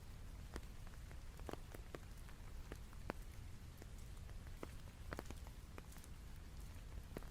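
Rain falling steadily, with scattered individual drops ticking sharply at irregular intervals over a low, steady rumble.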